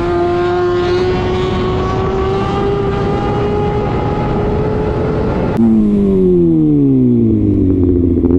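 Kawasaki ZX-6R inline-four through an Arrow titanium exhaust, pulling under steady throttle with its pitch rising slowly. About two-thirds of the way in, the sound cuts sharply to a louder stretch where the revs drop away with a falling pitch as the throttle is closed.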